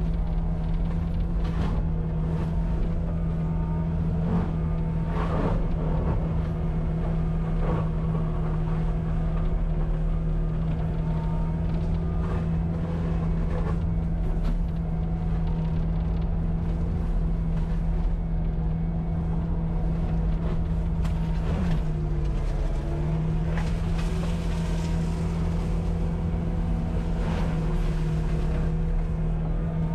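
Cat 259D compact track loader running at a steady high throttle, driving a forestry mulcher head with a constant hum. Short cracks and knocks from wood being chewed come through now and then.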